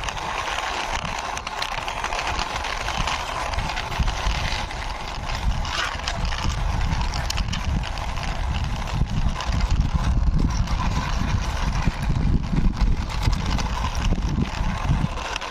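Plastic toy car pushed by hand, its wheels rolling and clattering over a rough surface with a continuous low rumble and many small irregular clicks.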